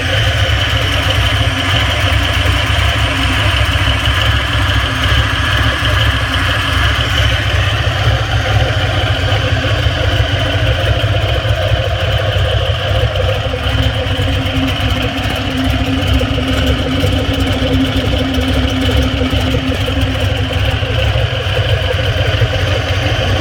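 Holden SS's 6.2-litre LS3 V8 idling steadily, running with the light knocking that the owner presents as piston slap.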